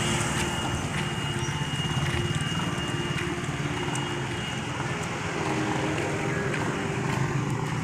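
An engine running steadily at an even pitch, with a thin, high, steady whine over it that fades out about halfway through.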